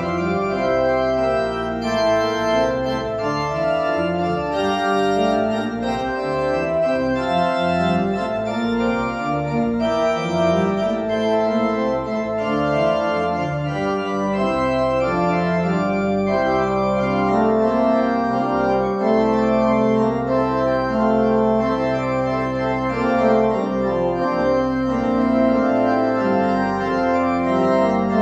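Church organ playing a postlude after the dismissal: full held chords that change every second or so over long sustained bass notes.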